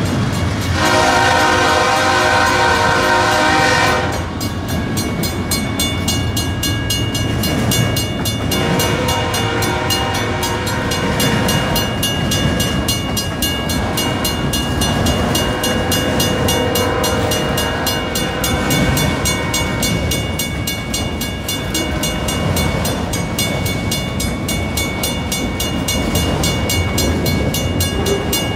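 Freight train of autorack cars rolling past with steady wheel-on-rail noise and clickety-clack. A locomotive horn sounds loudly for about three seconds near the start, and fainter horn blasts follow later.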